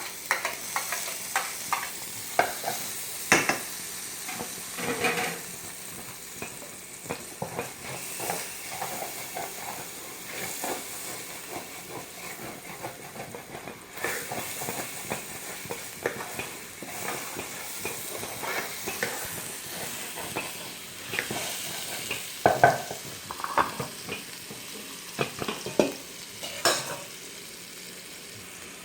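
Garlic sizzling in olive oil in a frying pan, a steady hiss, while it is stirred, the utensil clicking and scraping against the pan, with a run of louder knocks about three-quarters of the way through.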